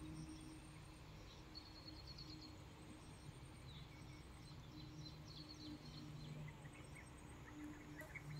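Near silence: faint outdoor ambience with small birds chirping in the distance, a quick run of chirps about a second and a half in and scattered chirps later.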